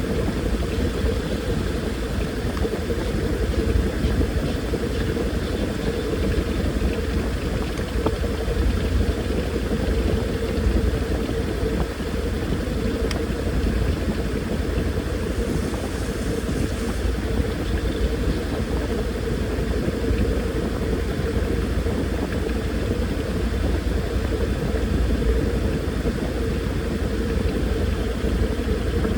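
Washing machine running, a steady motor hum with a low rumble underneath.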